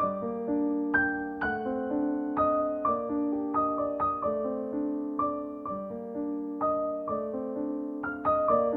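Background piano music: a soft, repeating run of notes, about two a second, each ringing and fading before the next.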